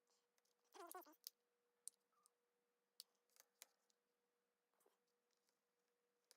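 Near silence with a few faint, sharp clicks and a brief squeak about a second in, from small plastic model parts and a screwdriver being handled.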